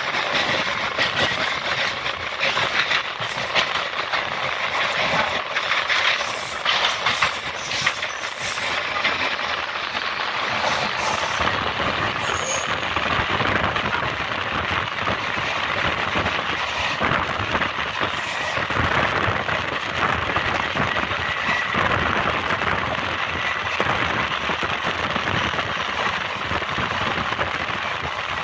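Train running at speed, heard from on board through an open window or doorway: a steady rush of wheel and rail noise with rattling clatter. The clatter is busier in the first several seconds, while the coaches of a train on the next track pass close alongside.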